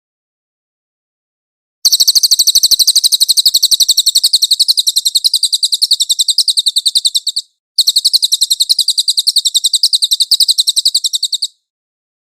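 A cililin bird singing long, rapid trills of evenly repeated, very high chirps. One trill starts about two seconds in and runs nearly six seconds; after a brief break, a second trill runs nearly four seconds.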